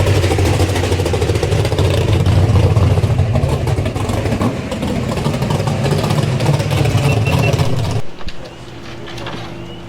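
Car engine running loudly with a deep, steady exhaust note. It stops abruptly about eight seconds in, leaving quieter background noise.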